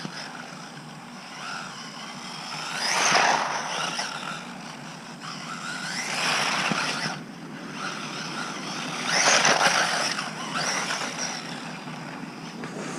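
WLtoys RC short course truck's electric motor whining at full speed, with three louder surges about three, six and nine seconds in.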